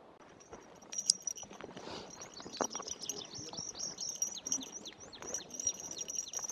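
Small wild birds chirping in woodland: a busy run of quick, high, downward-sliding chirps overlapping one another, over a thin steady high note, with a couple of soft knocks about a second in and near the middle.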